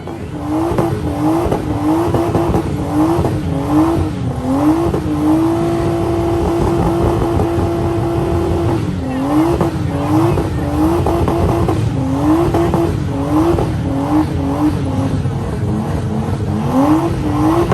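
Car engine revved hard in quick repeated pulls, the pitch climbing and dropping about one and a half times a second. Near the middle it is held at steady high revs for about three seconds, then the pulls start again.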